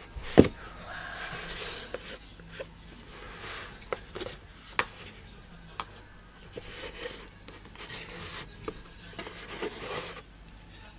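Handling noises as headphones and their packaging are handled: a sharp knock about half a second in, then rustling and rubbing with scattered clicks and taps.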